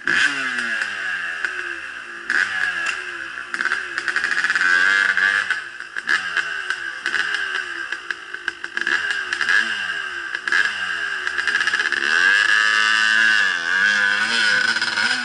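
Dirt bike engine running and being revved up and down over and over, the pitch rising and falling with each blip of the throttle.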